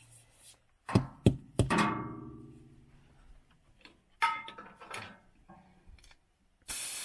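Metal clanks ringing out as equipment is handled: three sharp strikes about a second in, more knocks a few seconds later. Near the end comes a hiss of compressed air, about a second long, as the air is readied to set the tire bead.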